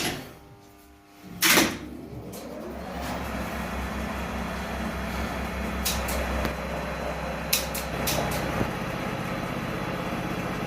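An elevator test run: a loud clack, then the lift starts and runs with a steady low hum, with a few light clicks along the way. The run checks the lift after its overspeed governor rope was refitted on the tensioning device and the safety circuit switched back on.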